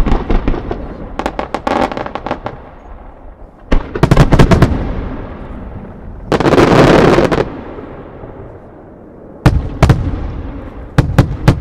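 Aerial firework shells bursting in groups of sharp bangs, each group echoing away. More than halfway through, a dense roll of bangs lasts about a second.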